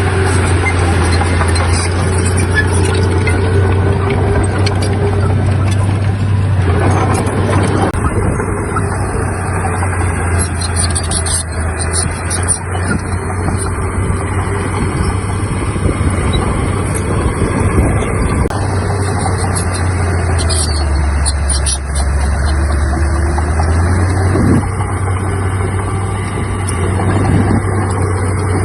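Heavy diesel engine of earthmoving machinery running steadily. Its note drops lower about twenty seconds in and comes back up a few seconds later.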